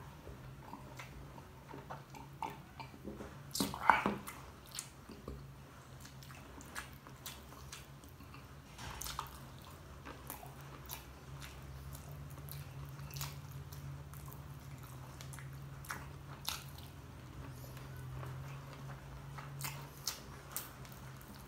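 Close-up eating sounds: chewing and wet mouth smacks with scattered short clicks as battered, sauce-coated dynamite shrimp is eaten by hand. There is a louder burst of mouth noise about four seconds in, over a steady low hum.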